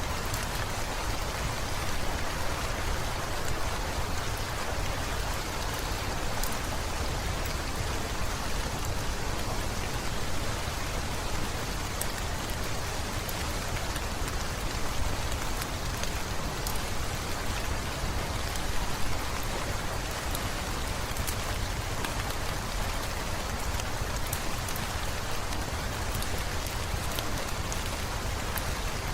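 Heavy rain falling steadily, with scattered small crackles and pops from a wood fire in a fireplace.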